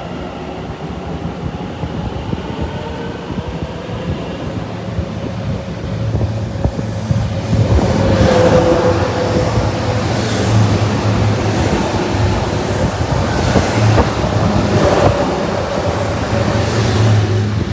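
Trains moving through a station. At first a fainter, slightly falling motor whine, then from about six seconds in a louder pass, with a steady low hum and wheels clacking over rail joints every second or two.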